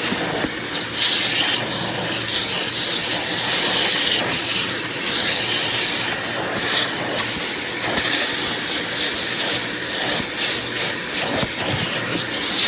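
Bissell CleanView Compact upright vacuum running: a steady high motor whine under a hiss of rushing air that swells and fades as it works.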